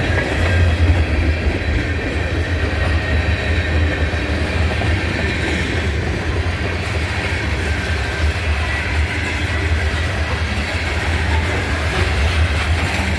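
Switcher locomotive bringing a cut of freight cars past, a steady low rumble of the locomotive with the rolling noise of the cars.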